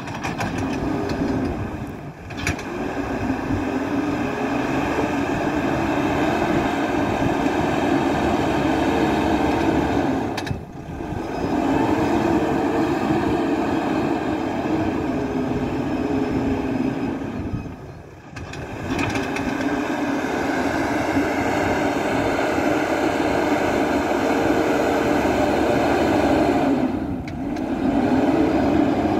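MST 642S backhoe loader's diesel engine running under load, its pitch rising and falling as the machine works. The sound drops away sharply four times for a moment.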